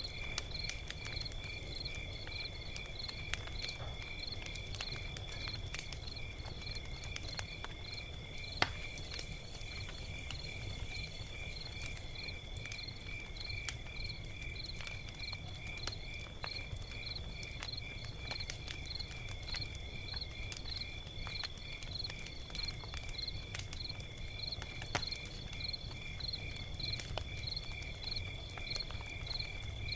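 Log fire crackling with scattered pops, one sharper pop about eight and a half seconds in, over crickets chirping in a steady, even rhythm with a constant high trill.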